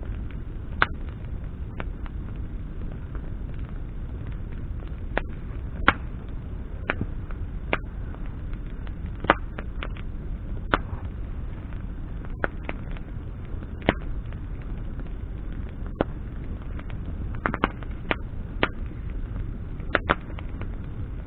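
Campfire of burning branches crackling, with irregular sharp pops about once a second over a steady low rumble.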